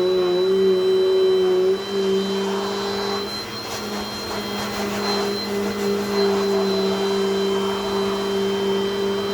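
Dirt Devil Dynamite Plus vacuum cleaner running steadily with a high whine, its hose nozzle sucking hair out of an electric razor. About two seconds in, the sound drops a little and turns rougher as air is drawn through the razor.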